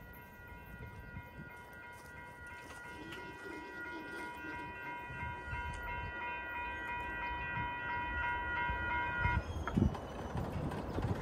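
A railroad warning bell rings rapidly and steadily, then stops about nine seconds in. Under it, the rumble of an approaching Metrolink train grows louder, with a single thump near the end.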